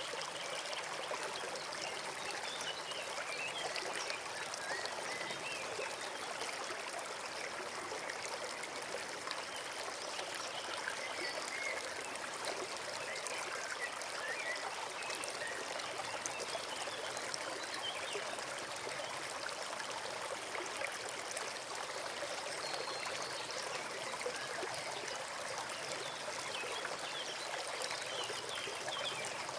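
Small forest stream flowing steadily, a constant rush of running water with no breaks.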